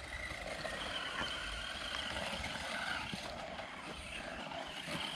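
Electric motor of a 1:12 scale RC monster truck whining faintly and steadily as it drives around the track.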